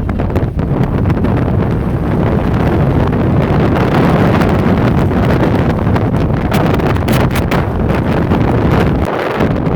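Antarctic blizzard wind blowing hard against the microphone: a loud, steady rumble broken by many short buffeting gusts.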